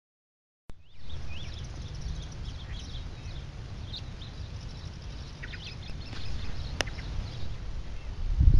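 Small birds chirping and calling in short, rising and falling notes over a steady low rumble, cutting in abruptly under a second in. One sharp click sounds near the end.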